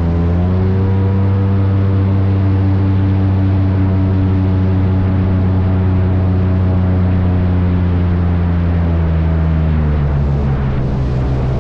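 Airboat's engine and large air propeller running steadily, a loud deep drone; the pitch drops slightly about nine seconds in.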